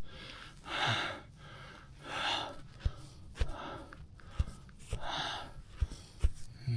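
A man breathing heavily, three deep breaths a couple of seconds apart, out of breath from climbing through deep snow on snowshoes. A few soft low knocks come between the breaths.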